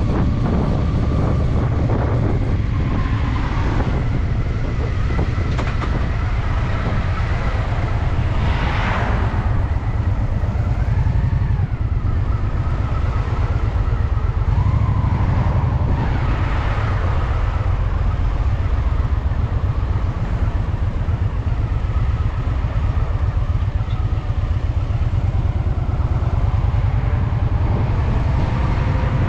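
Honda Shadow VT750's V-twin engine running steadily as the motorcycle is ridden, heard from the rider's position.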